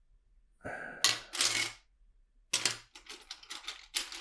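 Loose plastic LEGO bricks clattering and clicking as hands sort through and handle pieces, in three bursts of rapid clicks.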